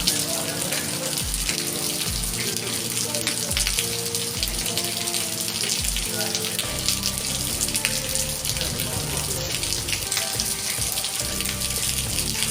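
Steady rain falling with water running, a dense hiss full of fine pattering. Background music with sustained notes and deep bass notes plays underneath.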